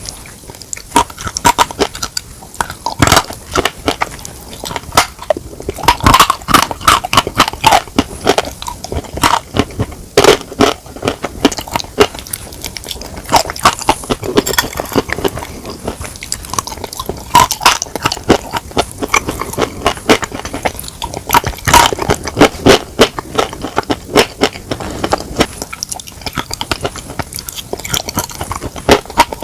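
Close-miked eating of chicken: irregular crunching bites and chewing, with many sharp crackles.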